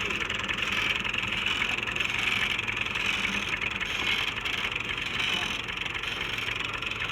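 Vehicle engine running steadily with a fast even pulse, under a constant rattling hiss.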